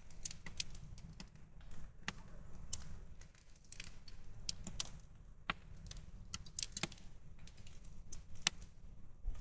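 Wood campfire crackling: irregular sharp pops and snaps, several close together, with a few louder snaps standing out.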